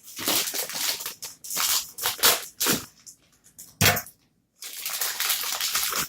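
Plastic candy bag crinkling loudly as it is handled and pulled open, with a couple of sharp snaps about halfway through.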